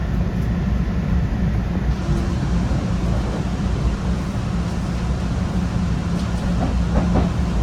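MBTA Red Line subway car running between stations, heard from inside: a steady rumble with a low, even hum.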